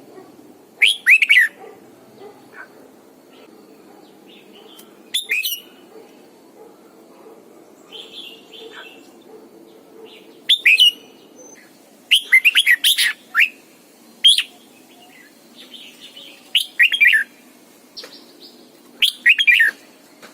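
Red-whiskered bulbul singing in short, loud phrases of quick falling notes, about seven phrases with pauses between them.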